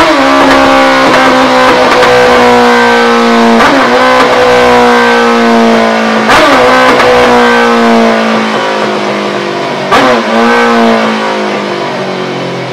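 Honda CBR954RR inline-four engine running hard on a dynamometer, its pitch sliding slowly down and then jumping back up sharply about four, six and ten seconds in.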